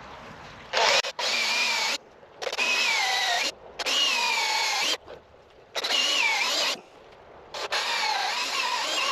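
Chisel cutting a chestnut blank on a foot-powered pole lathe: a cutting sound with a wavering pitch on each treadle down-stroke, about a second long, broken by short pauses as the wood spins back. Five strokes.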